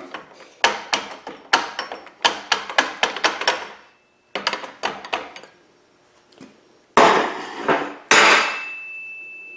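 Rapid light hammer taps on a ball joint fork wedged between a plastic pinion gear and its aluminum housing, driving the gear off its shaft. Two harder blows near the end, the last leaving a ringing metallic tone.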